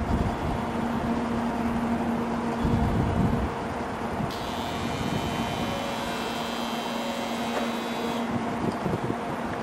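JR West 700-series Rail Star shinkansen pulling slowly out of the platform, with a steady electric hum. A cluster of high whining tones joins in from about four seconds in until about eight seconds.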